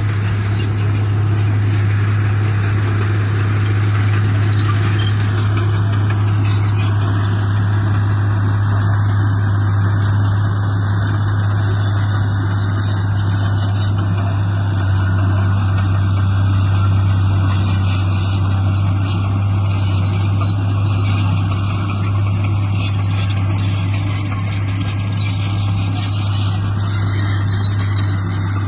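A bulldozer's diesel engine running steadily under work: a constant deep drone with a noisy mechanical rattle over it.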